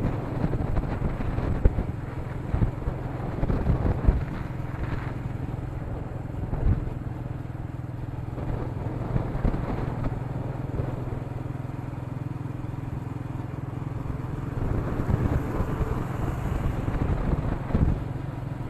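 Royal Enfield Meteor 350's single-cylinder engine running steadily while riding, with rough wind and road rumble on an action camera's built-in microphone and a couple of sharp knocks about two and four seconds in.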